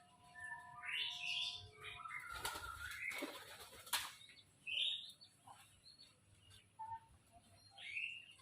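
Pigeons flapping their wings in a brief flurry about two to four seconds in, with a few short bird calls around it.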